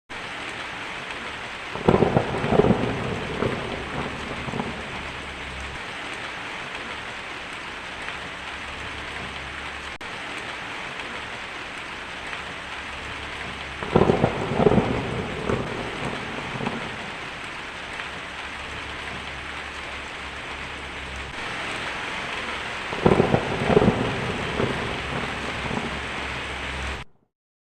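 Steady heavy rain with three claps of thunder, about two seconds in, midway and near the end, each rumbling on for a couple of seconds. The sound cuts off abruptly just before the end.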